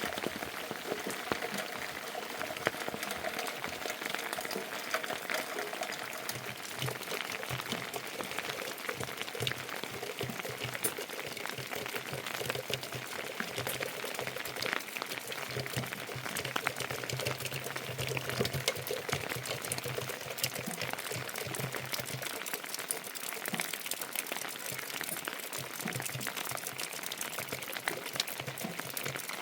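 Steady, dense crackling patter of water, made of many small splashes and ticks.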